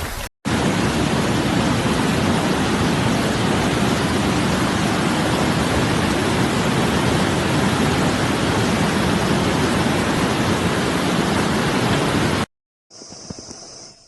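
Loud, steady rushing water noise from heavy rain and floodwater, with no let-up. It cuts off abruptly near the end, and a much quieter stretch follows with a faint, steady high hiss.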